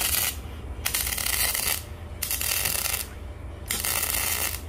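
Steel being arc-welded in four short runs of about a second each, a harsh crackling hiss with brief pauses between, as the stove's chimney collar is stitched on.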